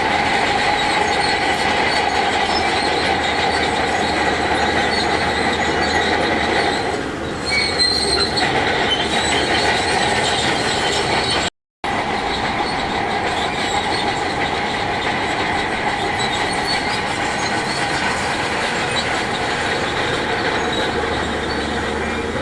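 Crawler bulldozer's steel tracks squealing and clanking steadily over its running diesel engine. The sound cuts out completely for a moment about halfway through.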